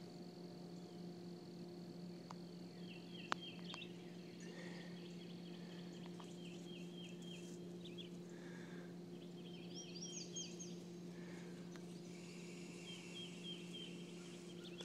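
Distant birds calling, several quick series of short high chirps, over a faint steady low hum, with one sharp click about three seconds in.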